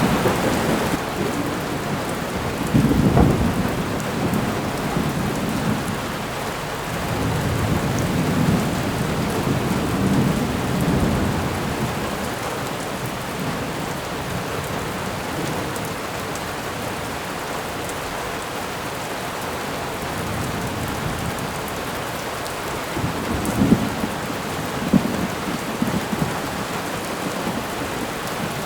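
Thunderstorm: steady rain falling, with a rumble of thunder about three seconds in, a longer rolling rumble a few seconds later, and a couple of sharper cracks near the end.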